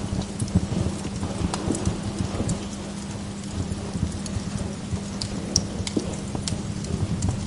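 Wood log fire crackling in a fireplace: a dense run of small pops and snaps, with a few sharper cracks, over the low rumble of the burning logs and a steady low hum.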